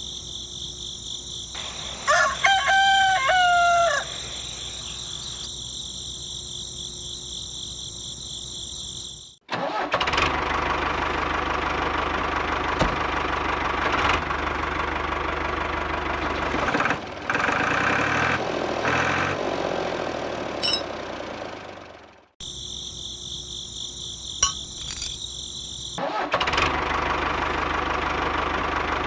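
A rooster crows once over a steady high-pitched hiss. After a sudden cut, a motor runs with a mechanical rattle. The hiss returns briefly, then the motor runs again.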